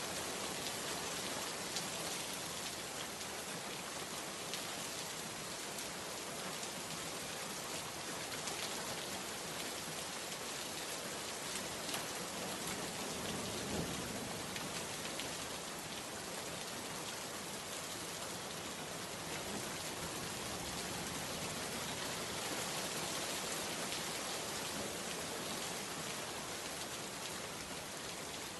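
Steady rain falling, a constant even hiss with scattered drop taps.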